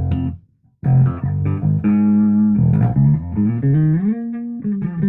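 Rivolta Mondata Deluxe electric bass played through a 1962 Fender Bassman amp stack. A held note is cut off about half a second in; after a short gap comes a run of plucked notes, with slides up in pitch.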